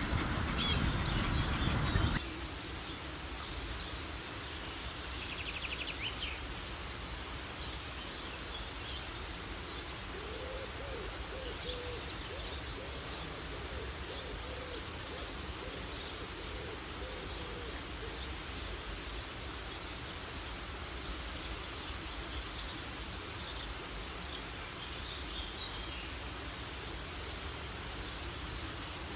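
Outdoor nature ambience: a louder low sound cuts off about two seconds in, leaving a steady background of insect trills recurring every several seconds and scattered bird chirps. In the middle comes a series of short, low hooting calls.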